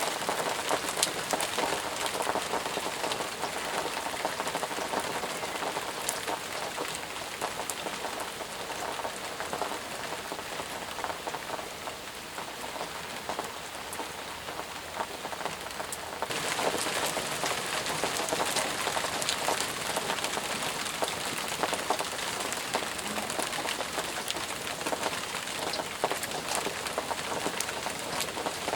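Steady, intense rain with many separate drops striking distinctly. About halfway through the sound steps up abruptly, slightly louder and brighter.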